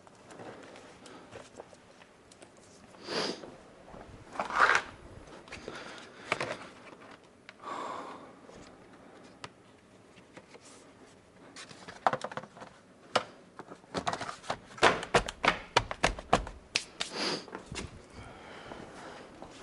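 Hands at work with tools and parts: scattered clicks and light knocks with a few short rustles, and a quick run of clicks a little past the middle.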